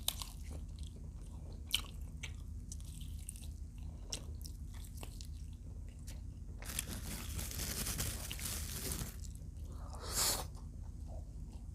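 Close-up chewing and crunching of fried adobo quail, with sharp wet mouth clicks. A longer hissy stretch of crunching noise comes in the middle, and a short louder burst follows near the end.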